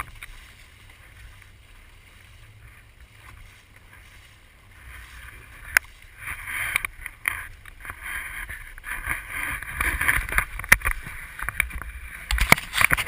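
Water splashing and rushing against a small Sunfish sailboat under way, over a low rumble. It grows louder and more irregular from about six seconds in, with many sharp splashes and knocks.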